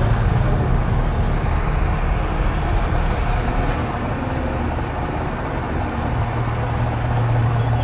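An engine idling with a steady low hum. The hum weakens a couple of seconds in and comes back strongly near the end.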